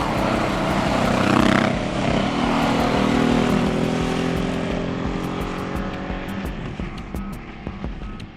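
Motorcycle engines running, growing louder over the first second or so and then slowly fading as the bikes ride away. Music plays underneath, its beat coming through more clearly near the end.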